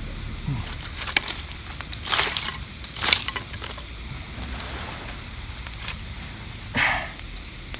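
A few short rustling, scraping noises of handling over a steady low outdoor rumble of wind and surf.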